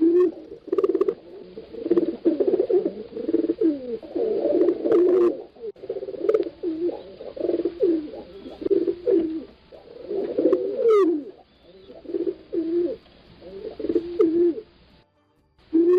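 Pigeons cooing, with the low calls repeating in quick succession and often overlapping. A brief high sweep sounds about eleven seconds in.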